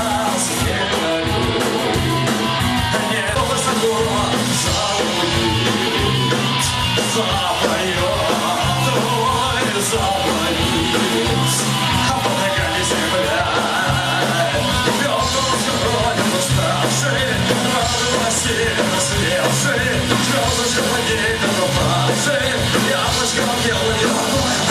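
Punk rock band playing live: electric guitars, bass and drums at a steady loud level, with regular drum hits.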